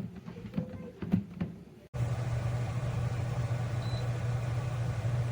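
A few light taps and knocks, then, about two seconds in, a steady low machine hum starts suddenly and runs on evenly, with a faint short high blip about four seconds in.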